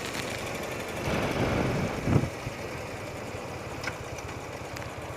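Old BMW boxer-twin motorcycle engine running steadily while riding, with a brief louder swell about two seconds in.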